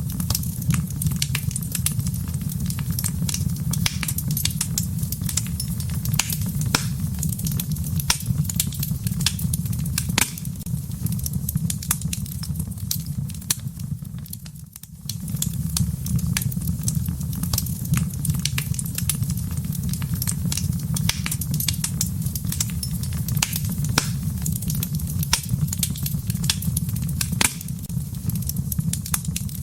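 Wood fire crackling in a fireplace: frequent sharp pops and snaps over a steady low rumble of the burning fire, with a brief dip in level about halfway through.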